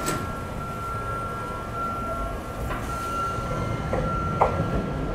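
Sotetsu 8000-series commuter train pulling out on the adjacent track, a low rumble of motors and wheels, with a steady high electronic tone over it that stops near the end. A sharp knock about four and a half seconds in.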